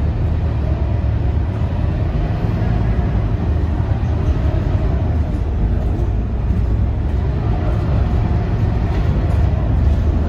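Scania K230UB city bus's diesel engine running steadily under way, a constant low rumble with a faint steady whine above it.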